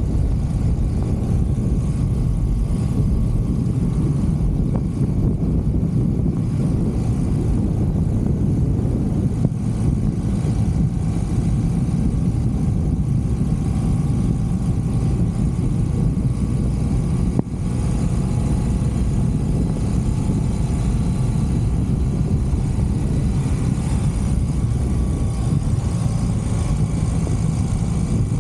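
1983 BMW R100CS's air-cooled boxer twin running steadily, its carburettor mixture screws freshly adjusted, with a brief dip about 17 seconds in.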